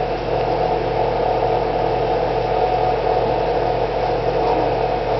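Steady mechanical hum with a few constant tones, unchanging throughout; no bird calls or other distinct events.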